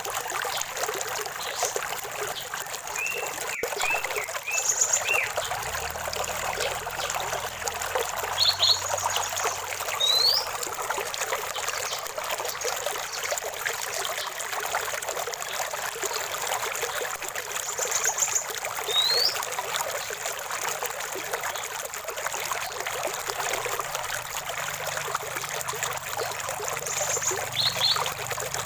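Shallow stream of running water trickling and splashing steadily, with a bird calling now and then: brief chirps and short rising whistled notes every several seconds.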